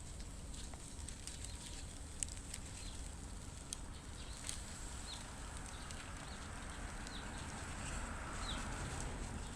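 Outdoor ambience: a steady low rumble with scattered sharp crackles and a few short, high bird chirps.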